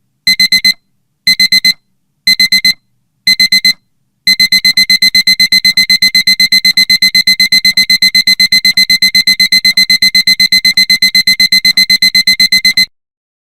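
Electronic alarm beeping high-pitched. It sounds in groups of four quick beeps about once a second, then switches about four seconds in to continuous rapid beeping, which cuts off suddenly near the end.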